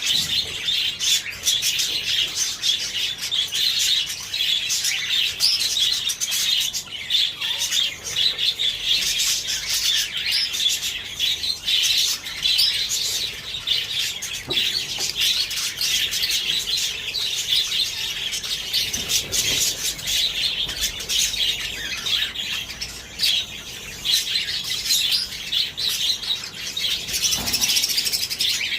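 Parrots chirping and chattering without a break, a dense run of quick high chirps with occasional squawks.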